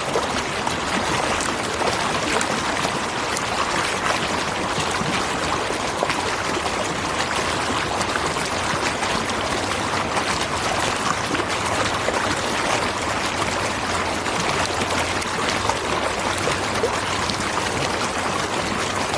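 Waterfall and its stream running water, a steady rushing splash.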